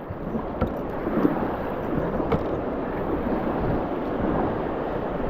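Whitewater rapids rushing around a kayak as it runs a rapid, mixed with wind buffeting the microphone; the noise swells during the first second or so and then holds steady, with a few light knocks.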